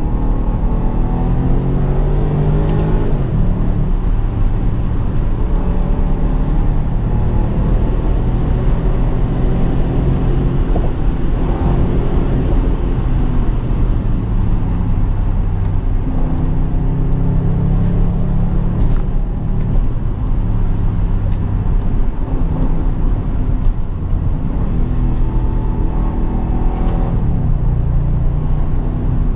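BMW 650i's V8 engine under way, its revs rising and falling several times, over steady road and tyre rumble.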